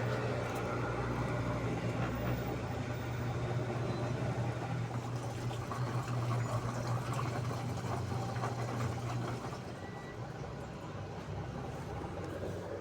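Daewoo washing machine running with water, a steady low motor or pump hum under a watery hiss; the hum drops off about nine and a half seconds in.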